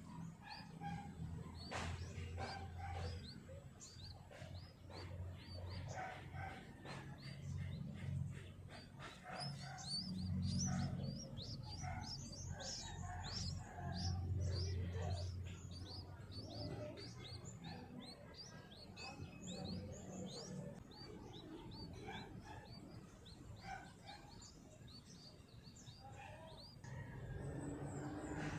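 Small birds chirping, a dense run of quick, short, high chirps, over a low rumble that swells and fades.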